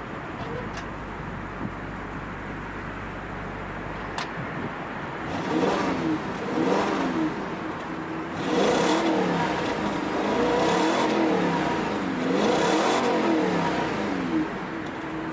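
2015 Audi RS5's 4.2-litre V8 and exhaust running steadily, then from about five seconds in revved up and down several times, the pitch rising and falling with each blip.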